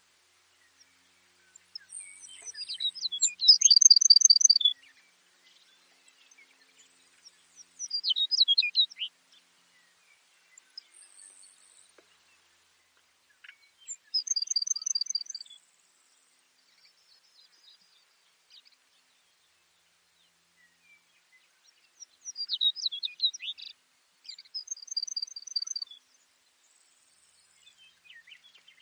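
Baird's sparrow singing: about five short, high-pitched songs a few seconds apart, several ending in a quick, even trill.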